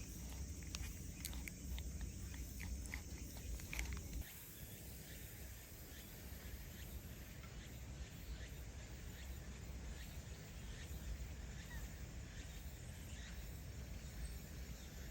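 Light clicks and scuffs for about four seconds, then an abrupt change to steady outdoor background noise with faint scattered insect chirps.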